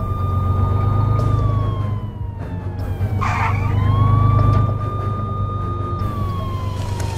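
Fire engine siren wailing: a steady high tone that slowly falls, swoops quickly back up about three seconds in, holds, and falls again, over a steady low hum. A short noisy burst comes at the moment the tone swoops up.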